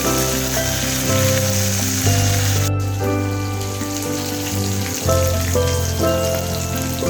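Chicken leg pieces sizzling as they fry in hot oil, a steady crackling hiss that drops out briefly about a third of the way in and comes back fainter, under background music with held notes and a bass line.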